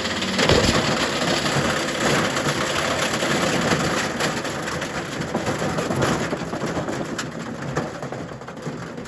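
Candy washing machine running with a piece of metal thrown into its drum, which rattles and bangs around inside in a dense clatter. The noise dies down over the last few seconds.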